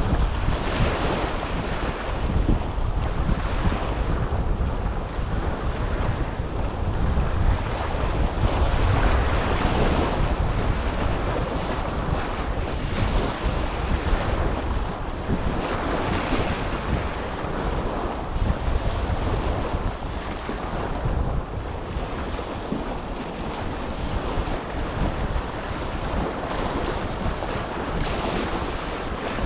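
Small waves lapping and breaking on the Dead Sea shore, swelling and falling every few seconds, with wind buffeting the microphone.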